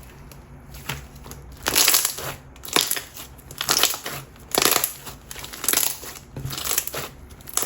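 Overactivated water jelly slime with pearls being squeezed and pressed by hand, giving a wet crackling squish about once a second, some seven times.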